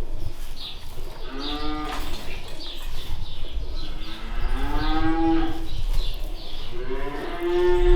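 Cows mooing: three long moos, about a second and a half in, around the middle, and near the end, with short high chirps repeating in the background.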